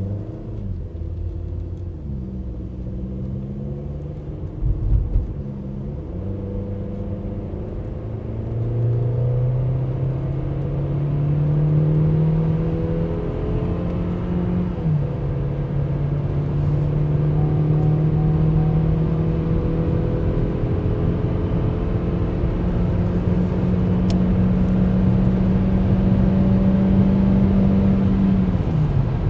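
Opel Astra J's 1.4-litre turbocharged four-cylinder engine pulling the car up through the higher speeds, with tyre and road rumble. The engine note climbs slowly and drops once about halfway through as the transmission shifts up, then climbs again and falls off near the end. There is a brief thump about five seconds in.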